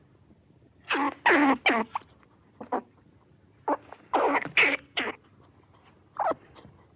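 An animal's short, harsh calls coming in bursts, some in quick runs of three or four, with pauses between.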